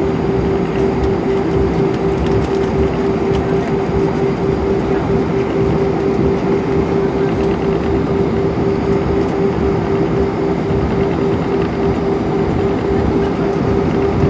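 Cabin noise of an Airbus A320 rolling on the ground, heard from inside: the jet engines hold one steady tone over the rumble of the landing gear on the pavement.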